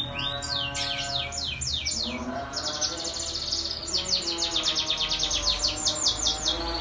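Domestic canary singing: series of high, quickly falling notes, spaced at first and then running into a fast rolling trill in the second half that stops just before the end.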